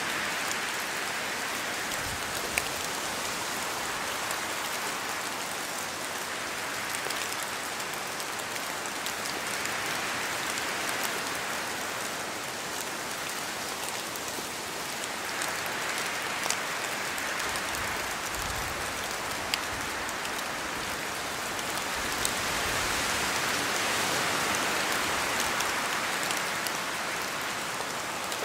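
Steady rain falling in a forest, the hiss swelling and easing a few times as wind gusts through the trees, with scattered louder single drops falling from the branches.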